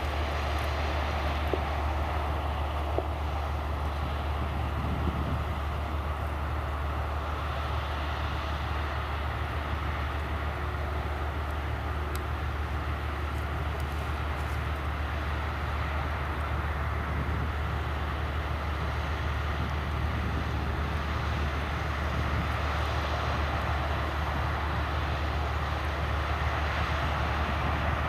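Heavy farm machinery running steadily in a corn harvest: a continuous engine drone with a strong low hum and even mechanical noise, unchanging throughout.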